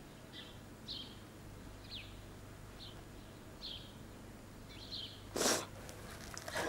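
Small birds chirping faintly, short high chirps about once a second, some sliding downward. A brief soft rustle-like noise about five and a half seconds in.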